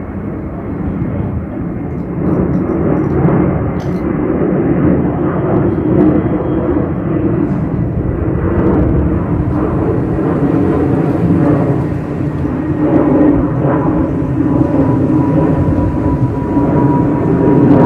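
Airbus A330-300 jet airliner climbing out after takeoff, its engines a loud, steady rumble that grows louder toward the end, with a thin steady tone coming in during the second half.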